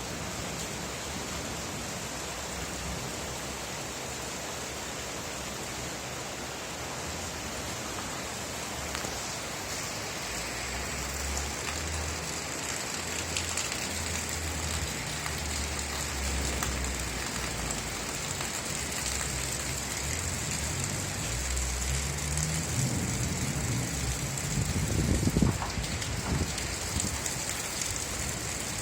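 Steady rain falling, an even hiss. From about a third of the way in a low rumble comes and goes beneath it, swelling to its loudest near the end.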